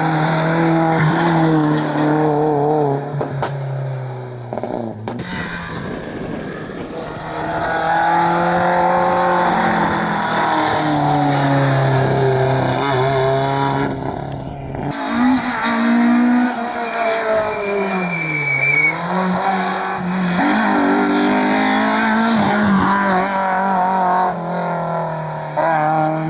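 Rally car engines at full throttle, the pitch climbing and dropping with each gear change and lift-off, with some tyre squeal. The sound cuts abruptly twice, from one car to the next.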